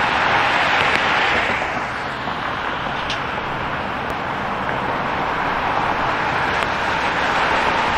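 City street traffic: cars passing with tyre noise, louder at the start and again near the end, with a lull in between.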